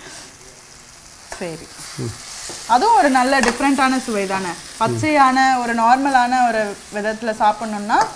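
Onion-tomato masala with curry leaves sizzling in a stainless steel kadai as it is stirred with a metal slotted spoon. From about three seconds in, a louder wavering pitched tone sits over the frying, held longest near the middle.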